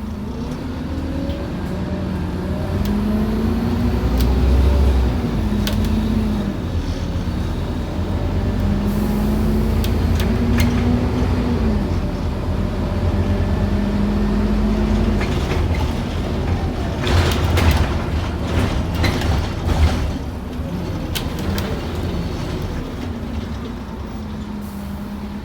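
Scania N230UD OmniCity bus's five-cylinder diesel engine heard from inside the bus, pulling away and working up through the automatic gears, its note rising and then dropping at each change. It then eases off, with a cluster of knocks and rattles about two-thirds of the way through, before settling to a steady lower running note.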